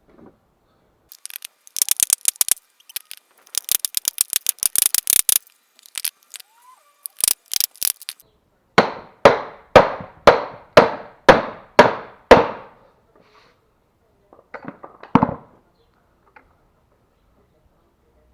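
Hammer blows on a metal drift driving the large drum bearing out of a washing machine's tub, a bearing that has worn out. First fast flurries of light, sharp taps, then about eight heavy blows at about two a second, and two more a few seconds later.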